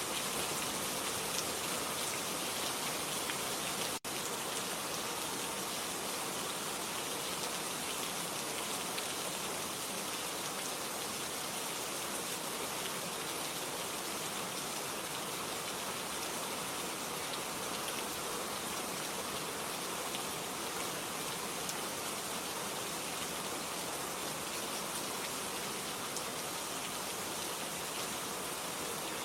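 Steady rain, a dense, even patter with no change in strength. It drops out for an instant about four seconds in.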